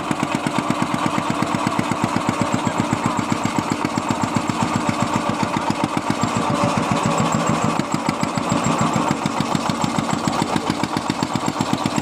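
Small boat's engine running steadily with a fast, even beat, a little louder for a few seconds in the middle.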